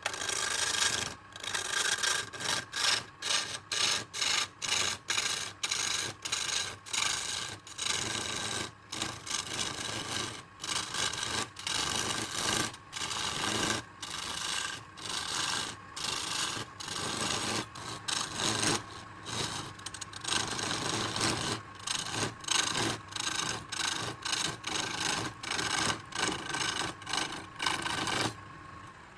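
Redwood burl spinning on a wood lathe with a tool scraping against it: a rough rasping sound broken by short gaps, about one to two a second. It stops shortly before the end.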